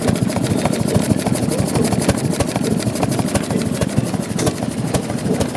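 Old Ellis stationary engine running steadily, a rapid, even train of sharp beats.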